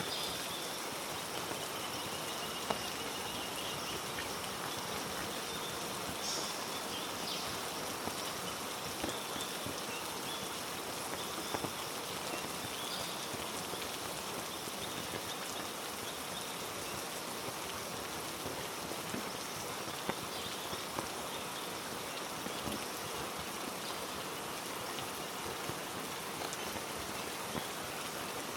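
Heavy rain falling on rainforest foliage: a steady hiss with scattered individual drops ticking throughout.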